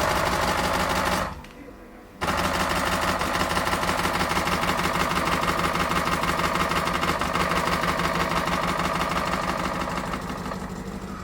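WPM KD330 espresso machine's pump running loudly with a rapid buzzing rattle as it pushes water through the coffee puck and builds pressure. It cuts out about a second in, starts again about two seconds in, then runs steadily, easing off slightly near the end.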